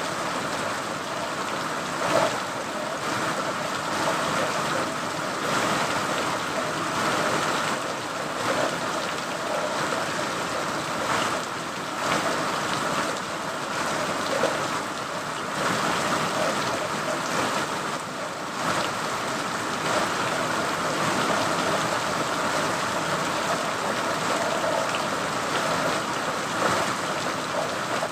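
Steady rain: an even, continuous hiss that swells briefly louder every few seconds.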